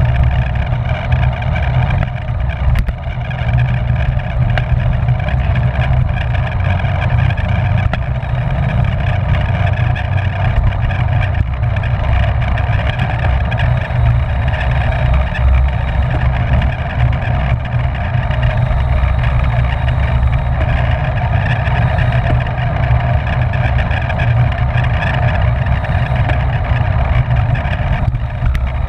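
Steady rush of wind over the microphone of a camera riding on a racing bicycle at speed, a loud, unbroken rumble.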